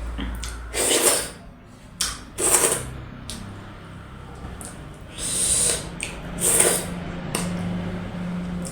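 Close-miked eating mouth noises: about five short, loud, hissy bursts of slurping and smacking, with a faint low steady hum underneath.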